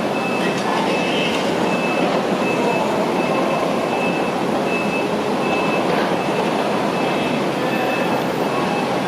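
Heavy construction machinery running steadily, with a vehicle's backup alarm repeating a high beep at an even pace over it.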